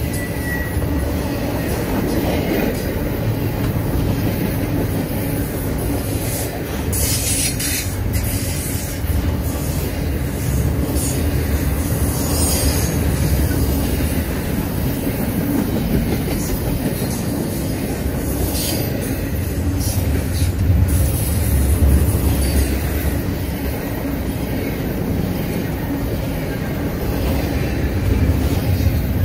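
Double-stack intermodal freight train's loaded well cars rolling steadily past, a continuous low rumble of wheels on rail, with a few brief high-pitched wheel squeals.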